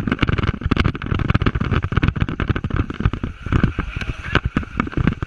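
River water rushing and splashing around an inflatable raft, with a dense run of irregular splashes and crackles over a rumbling hiss, and wind buffeting the microphone.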